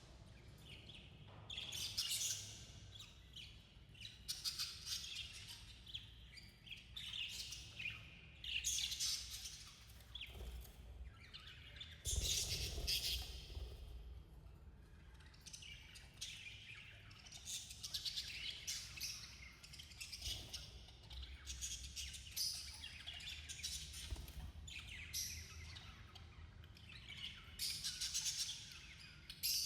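Budgerigars chirping and chattering in repeated bursts of quick, high twittering, busiest around a dozen seconds in and again near the end.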